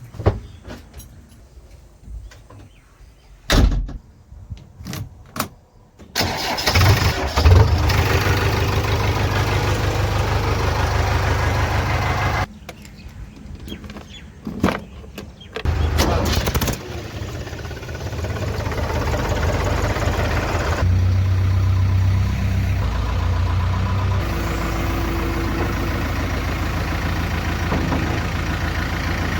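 A few clicks and knocks, then a diesel engine starts and runs steadily for about six seconds before cutting off. About halfway through it is started again and keeps idling.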